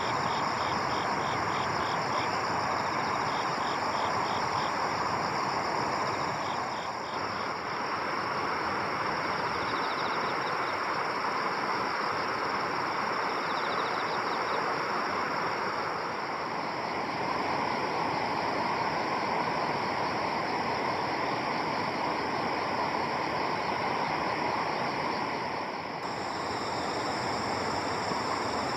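Steady rushing outdoor noise, with insects calling: high steady trills and, in the first few seconds, fast pulsed chirps.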